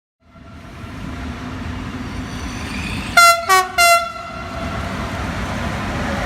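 Train approaching through a station, its rumble growing steadily louder. About three seconds in, a two-tone locomotive horn gives three short blasts: high, low, high.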